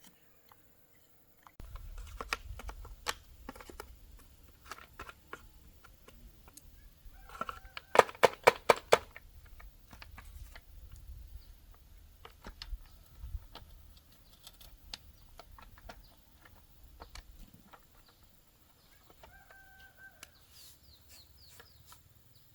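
Irregular clicks and knocks of hand tools on chainsaw parts during repair work, with a quick run of about seven sharp taps about eight seconds in.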